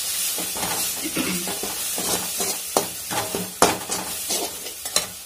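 Onion-tomato masala with red chilli powder sizzling in a metal kadai while a steel spatula stirs it, with several sharp clacks of the spatula against the pan in the second half.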